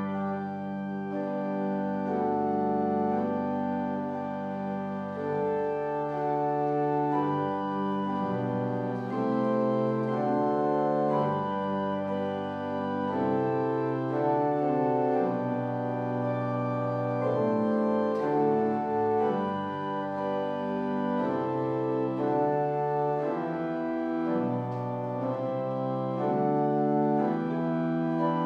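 Organ playing a slow piece of held chords, the notes changing every second or so over sustained bass notes.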